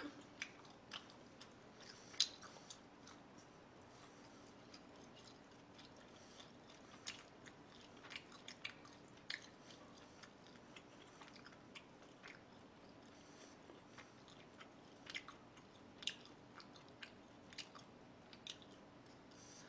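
Faint chewing: soft mouth clicks and smacks at irregular intervals, one a little louder about two seconds in, over a low steady room hum.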